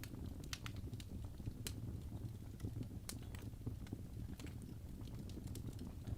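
Wood fire burning in a fireplace, with irregular sharp crackles and pops several times a second over a steady low rumble of the flames.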